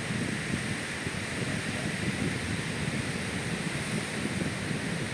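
Wind buffeting the phone's microphone in gusts over a steady wash of surf breaking on the beach.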